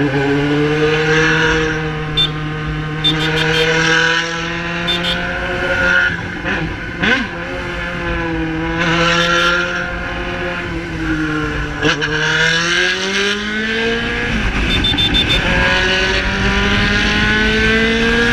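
Yamaha XJ6 inline-four engine through an Atalla 4x1 aftermarket exhaust, running under way at steady cruising revs. The pitch rises about thirteen seconds in as the throttle opens, then holds at the higher revs.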